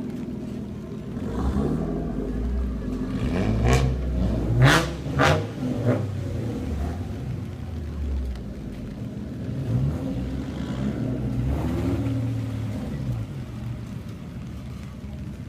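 Old Japanese cars with loud aftermarket exhausts, revving up and down as they move. Several sharp cracks come about four to six seconds in.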